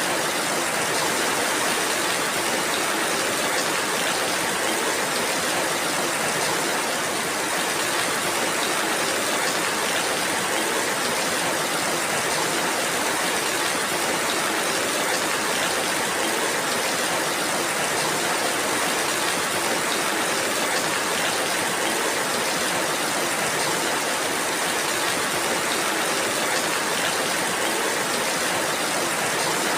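Steady rainfall: a dense, even hiss with no breaks and no single drops standing out.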